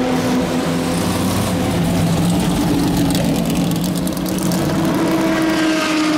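Greenwood Corvette race car's ZL1 aluminium 427 big-block V8 running at low revs as the car rolls slowly past. The revs rise slightly about two-thirds of the way through.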